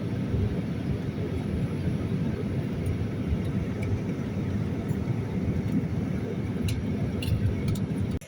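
Boeing 787-9 jet airliner running with a steady low rumble, a few faint clicks near the end, then cutting off suddenly.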